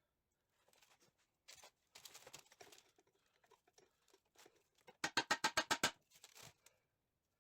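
Hand work with tools and metal parts at a workbench: light clattering and handling noises, then a quick run of about nine sharp, evenly spaced clicks lasting about a second, a little after the middle.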